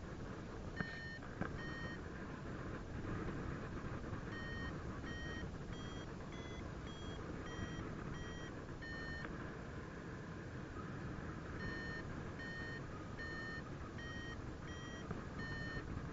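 Paragliding variometer beeping in short tones about one and a half times a second, the pitch rising a little midway and falling back, with a pause of a couple of seconds between runs: the climb tone, signalling rising air. Wind rushing over the microphone underneath throughout.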